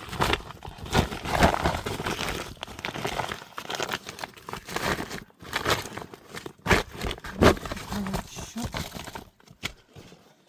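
Dense, irregular rustling and crinkling from close handling, with sharper crackles about two-thirds of the way in, fading near the end.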